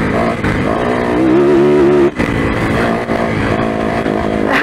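Four-stroke single-cylinder enduro motorcycle engine running on the trail, its revs rising and falling with the throttle. The throttle is briefly shut about two seconds in, then opened again.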